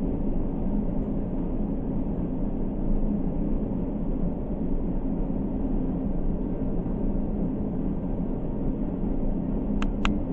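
Steady low rumble with a droning hum under it, and two quick clicks near the end.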